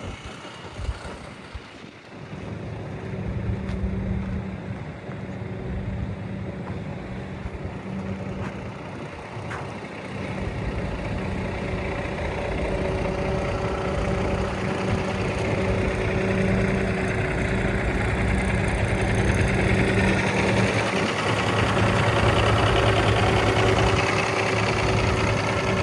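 Cummins ISX inline-six diesel of a tandem-axle International 9200i truck idling steadily, growing louder over the second half.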